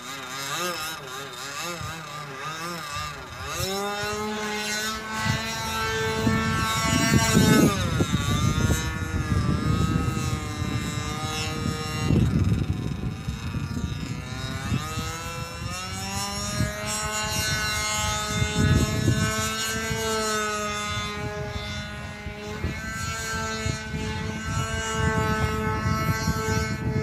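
Engine of a gas-powered Primo Laser RC airplane in flight, its pitch rising and falling as the plane flies past and turns, with a sharp drop in pitch about seven and a half seconds in.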